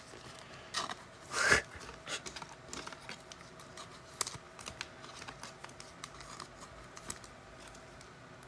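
Trading cards being handled and flicked through, a run of small irregular clicks and snaps, with a louder brushing swish about a second and a half in.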